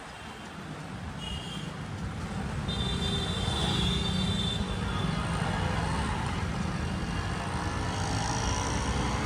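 Road traffic noise with vehicle engines running. It builds over the first few seconds and then holds steady, with a brief high tone in the middle.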